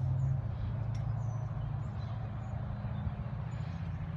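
Low, steady motor rumble that slowly fades, with a few faint high chirps over it.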